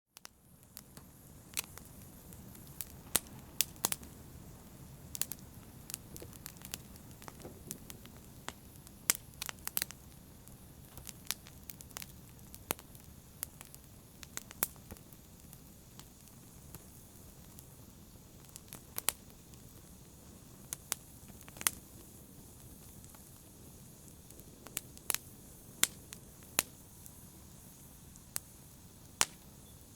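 Wood fire in a fireplace crackling: irregular sharp pops and snaps over a low steady rumble, cutting in suddenly from silence at the start.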